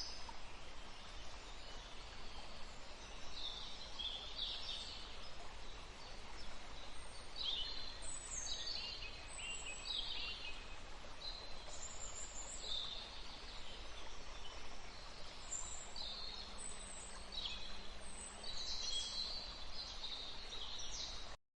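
Outdoor ambience with birds chirping in short, irregular high calls over a steady background hiss. The sound cuts off abruptly just before the end.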